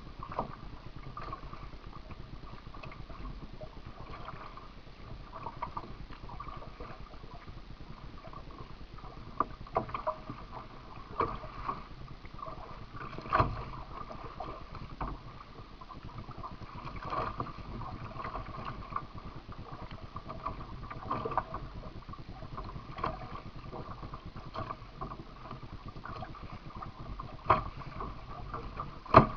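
Water sounds of a kayak under way: a steady wash with sharp splashes at irregular intervals, a few seconds apart.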